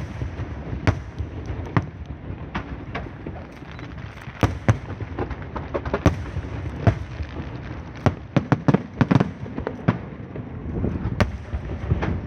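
Fireworks going off in irregular sharp bangs, with a quick run of bangs about eight seconds in.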